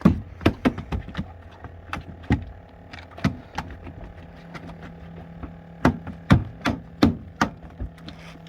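Irregular sharp knocks and thuds on a boat, about fifteen spread unevenly over several seconds, the loudest near the start and around six to seven seconds in, over a steady low hum.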